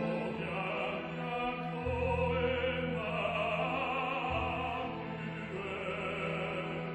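Classical sacred music: voices singing held notes over a string orchestra, with a steady bass line underneath.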